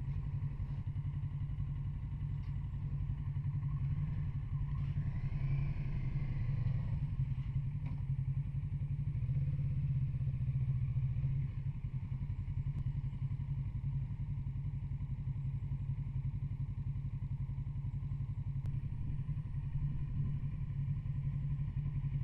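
Kawasaki Z650RS parallel-twin engine running steadily at a low, even pitch, with a brief rise and fall in pitch about five seconds in.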